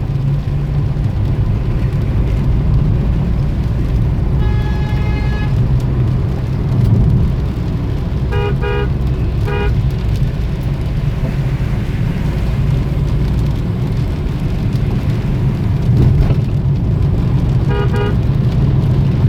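Steady rumble of road traffic with car horns: one longer honk about four seconds in, three short toots around eight to ten seconds, and another short toot near the end.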